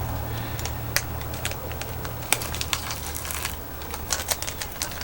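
Plastic candy wrapper of a Skittles pack being handled and opened: irregular crinkles and sharp clicks, over a steady low hum.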